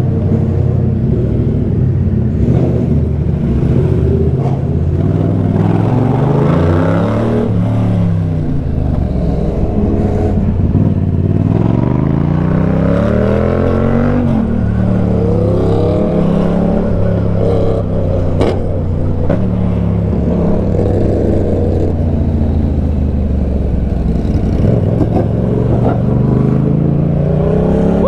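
Motorcycle engine running under way, its pitch climbing as it accelerates about six seconds in and again from about eleven to fourteen seconds, then settling to a steady pitch.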